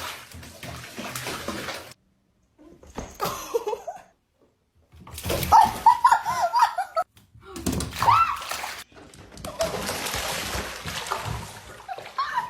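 Water splashing and sloshing in a few short segments broken by abrupt silent cuts, with brief wavering cries in between.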